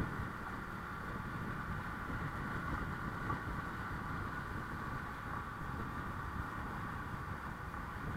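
Honda Click 125i single-cylinder scooter running steadily while riding, with road and wind noise.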